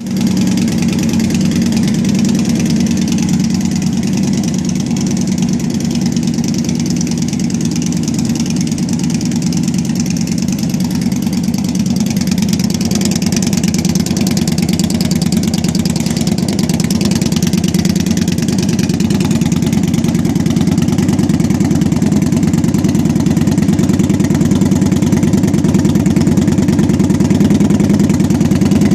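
Motorcycle engine idling steadily through a Vance & Hines aftermarket exhaust, a deep even pulsing note.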